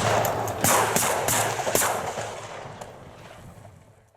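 A rapid volley of shotgun shots from goose hunters, about four in the first two seconds, each ringing out in a long echo that dies away.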